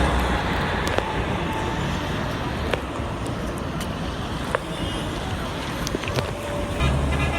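Steady rain mixed with road traffic, with scattered sharp ticks. Near the end a vehicle engine comes up close.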